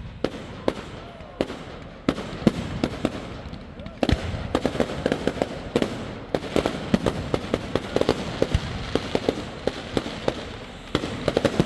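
Fireworks display going off: a run of sharp bangs and crackles with a few whistling glides near the start, turning into a denser, louder barrage about four seconds in.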